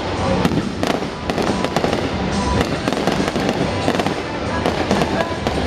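Aerial fireworks bursting and crackling, many sharp bangs in quick succession.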